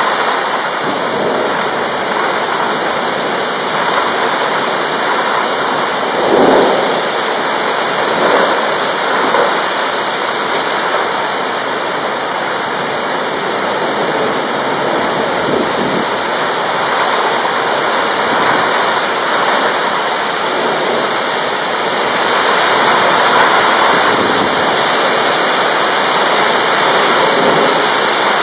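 Heavy rain pouring down steadily in a dense hiss, swelling a little in places.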